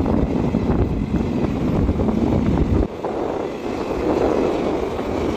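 Loud, steady running noise of passenger trains passing each other at speed, with wheels on rails and rushing air, heard from an open coach doorway. The deep rumble drops away abruptly about three seconds in, leaving a lighter rushing noise.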